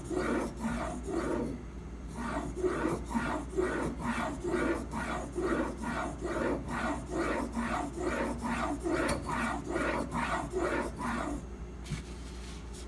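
Steel edge of a stainless steak knife, clamped at a fixed angle, being ground back and forth on a sharpening stone: rhythmic scraping strokes at about three a second, stopping shortly before the end. The grinding is raising a burr on the edge.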